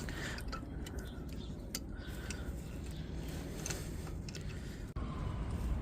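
Light metallic clicks and clinks of disc brake pads and hand tools being handled at a car's front brake caliper, over a steady low rumble of wind on the microphone.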